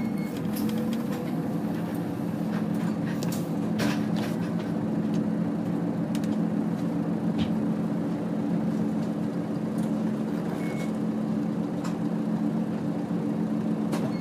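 Nissan Diesel UA (KL-UA452KAN) city bus heard from inside while driving at a steady speed: a steady diesel engine drone, with a few short rattles and knocks from the body.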